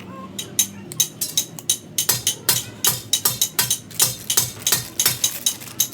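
A quick, fairly even series of sharp knocks or taps, about four or five a second, starting about half a second in, over a low steady hum.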